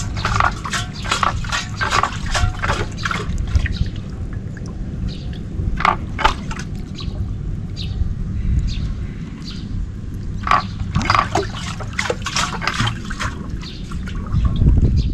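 Water sloshing and glugging in irregular bursts as a water-heater tank is shaken and drained, flushing the rust out of it, over a steady low rumble.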